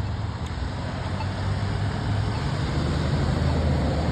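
Road traffic: a motor vehicle's engine rumble growing steadily louder as it draws near.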